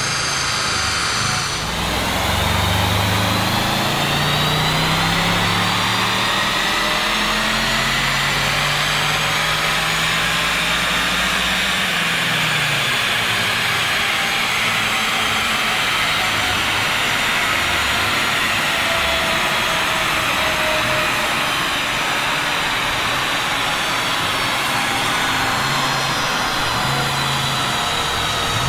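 Audi RS6 C8's twin-turbo V8 with a Capristo cat-back exhaust on a chassis dyno. Under full load the engine pitch rises steadily for about ten seconds, then drops as the throttle is released. A high whine and rush go on over it and slowly fall in pitch as everything winds down.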